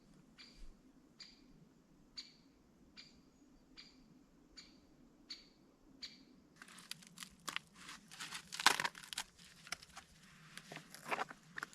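A short chirping call repeated evenly, about every three-quarters of a second. About six and a half seconds in it gives way to close, dense crunching and crackling, like dry material being handled.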